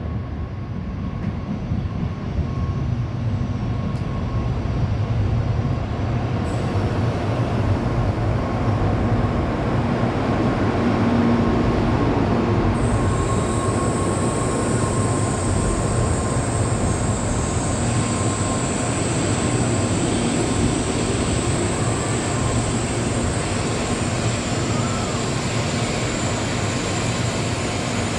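N700 series Shinkansen train pulling into the platform and slowing, its rumble swelling over the first several seconds as the cars come alongside, then holding. A steady whine runs underneath, and a high hiss joins about halfway through.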